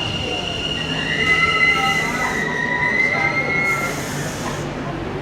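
NS Sprinter Nieuwe Generatie electric train running, with high squealing tones over its rumble. One tone holds steady at first, then a slightly lower one rises gently from about a second in until about four seconds in, with a burst of hiss in the middle.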